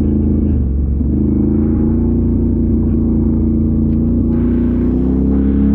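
Off-road vehicle engine running steadily under light throttle, its pitch creeping up near the end.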